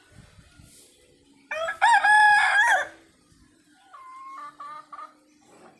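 Rooster crowing: one loud, drawn-out crow about a second and a half in, followed by a fainter, shorter crow or call about a second later.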